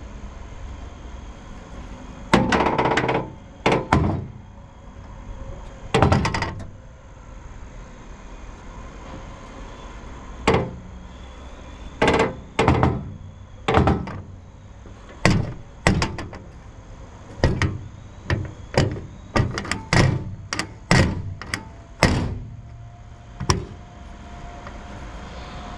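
A string of about twenty hollow metal thunks and knocks on a used Hitachi 135 excavator's steel body, irregularly spaced and some in quick pairs, over a steady background hum.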